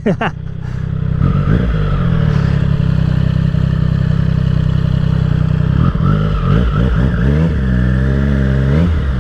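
Triumph Street Triple RS three-cylinder motorcycle engine running steadily at low road speed, heard from the rider's seat, with a few short rises and falls in pitch in the second half as the bike slows.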